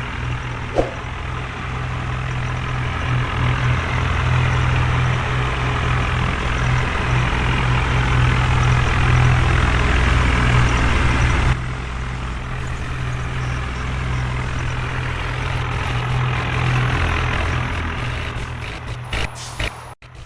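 Heavy diesel engine running steadily at a constant speed. It drops sharply in level about halfway through.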